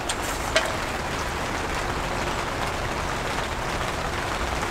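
Light rain falling steadily on the tent and its surroundings, an even hiss with a couple of light clicks in the first second.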